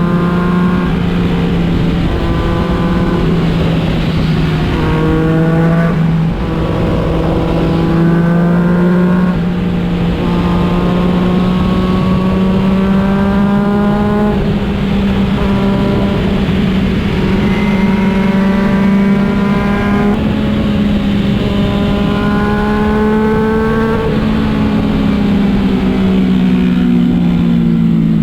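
Motorcycle engine running steadily under way, its note rising through several stretches of a few seconds each, over constant rushing noise.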